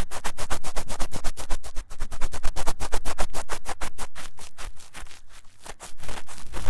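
Fast, vigorous ear-cleaning scratching on a 3Dio binaural microphone's ear: a rapid run of short scratchy strokes, about nine or ten a second.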